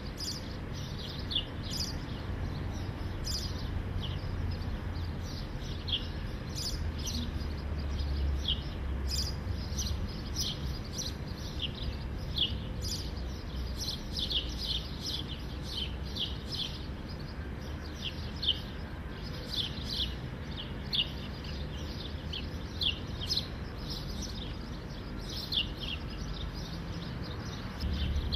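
Small birds chirping in a steady stream of short, falling chirps, over a low background rumble.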